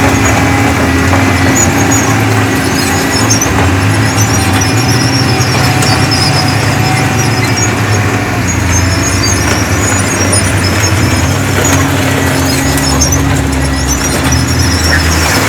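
Heavy diesel earthmoving machinery working, the engine running steadily under load with a faint steady whine. Patches of high-pitched squeaking come and go over it.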